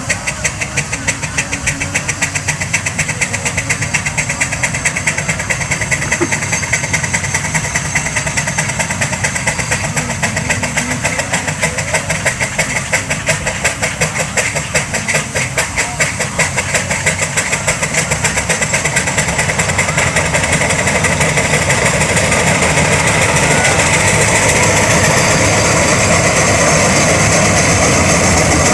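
Steam traction engines working under load, their exhaust chuffing in a rapid, even beat. About two-thirds of the way in the beats run together into a steadier, louder rush.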